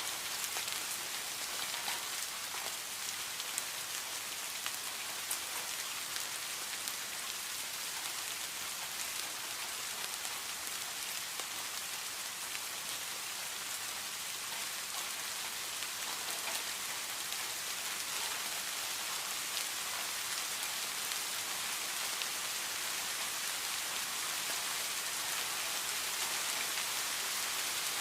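Steady heavy rain falling, a dense hiss of drops with scattered sharper drop hits, no thunder.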